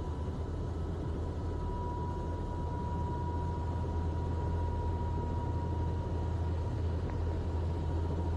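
Airbus H130 T2 helicopter on the ground after landing, its turbine engine and rotor still running at idle with the collective locked: a steady low rumble with a thin, steady high whine over it.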